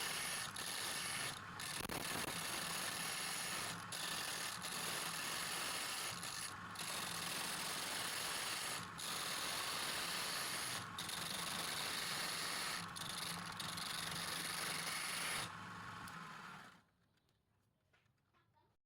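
Steady abrasive rubbing and scraping, typical of rust being sanded or brushed off metal lathe parts, broken by short pauses every second or two. It fades out and stops about three-quarters of the way through.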